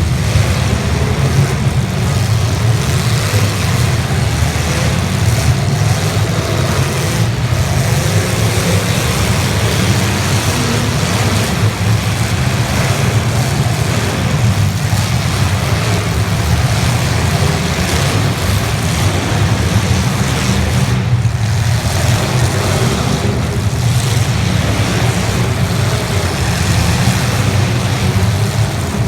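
Engines of several 1980s stock demolition derby cars running and revving together in a loud, steady, unbroken din.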